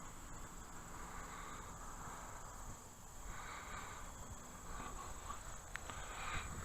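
Steady high-pitched chirring of insects, likely crickets, with low wind rumble on the microphone. The RC plane's electric motor and propeller buzz faintly in the distance, swelling about halfway through and again near the end.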